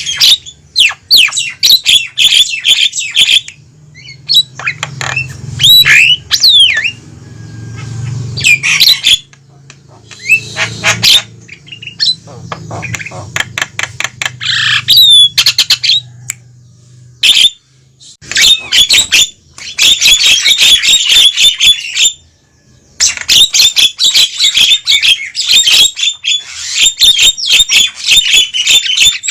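Javan mynas calling noisily: a dense, loud run of harsh squawks, clicking rattles and short whistled notes, broken by brief pauses. A faint low hum runs beneath the first half.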